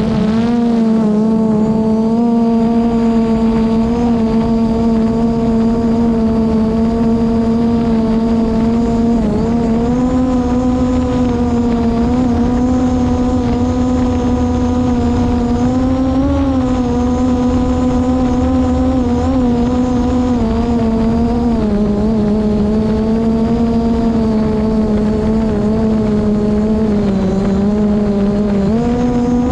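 DJI Mavic Pro quadcopter's propellers and motors running in a loud, steady hum, the pitch wavering slightly and dipping briefly near the end, over a low rumble of strong wind on the microphone.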